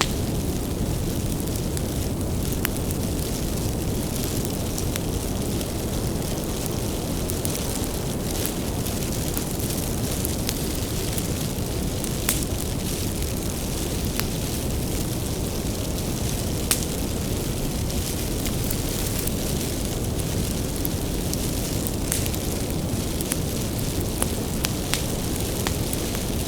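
Wood bonfire burning: a steady low rumble of flames with sharp crackles and pops scattered irregularly throughout.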